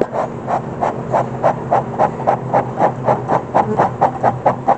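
Beekeeper's smoker bellows puffing rapidly and evenly, about four puffs a second, blowing smoke to drive the bees out of the hive box.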